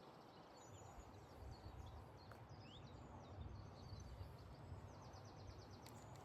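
Faint birdsong: small birds chirping, with a quick run of rapid notes near the end, over a low, uneven rumble.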